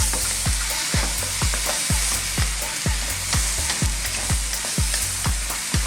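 Chow mein noodles, vegetables and chicken sizzling in a hot wok as they are stirred. Background music with a steady thumping beat, about two beats a second, and a bass line plays underneath.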